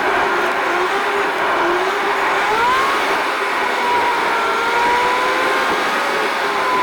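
A car being driven, heard from inside: steady road and engine noise, with the engine's pitch gliding up and down and rising a little over two seconds in as it accelerates.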